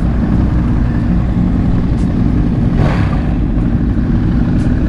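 Ducati Streetfighter V2's L-twin engine running steadily under way, a loud low rumble, with a brief rush of noise about three seconds in.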